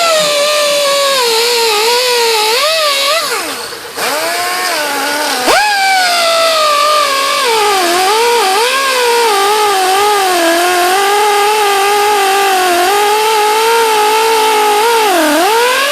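Handheld electric power tool running loud and cutting into the fiberglass transom, its whine sagging and rising in pitch as it bites. It winds down a few seconds in and spins up again a moment later.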